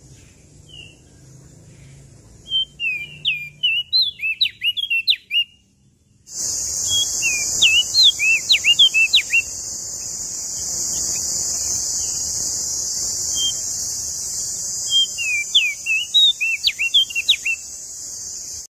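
A small songbird sings three quick, twittering phrases of rising and falling notes, each lasting two to three seconds. From about six seconds in, a steady high hiss runs under the song.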